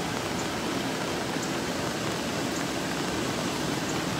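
Floodwater in Joplin Creek rushing over the low-water crossing: a steady, unbroken rush of water.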